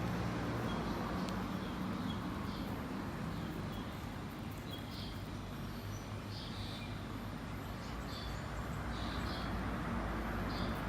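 Short high chirps of a small bird, repeating every second or so, over a steady low background rumble.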